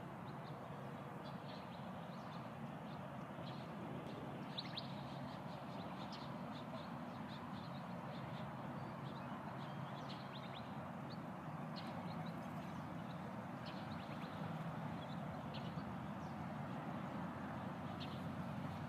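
Birds chirping in short, scattered calls over a steady low background noise of outdoor ambience.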